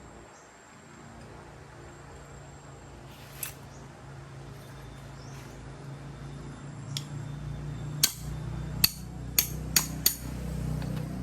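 Tools knocking on metal engine parts: five sharp knocks in quick succession about eight seconds in, after a couple of lighter clicks, over a low hum that grows louder from about halfway.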